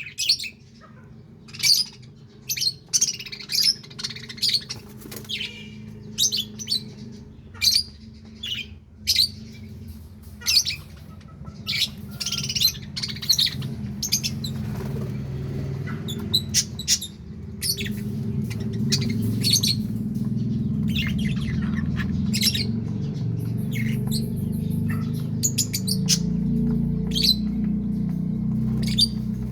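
A flock of budgerigars chirping and chattering in quick, short calls throughout. A low steady hum underneath grows louder about halfway through.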